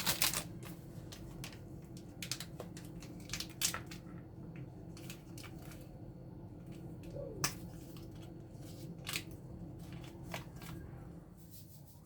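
Irregular clicks, taps and rustles of objects being handled, over a steady low hum.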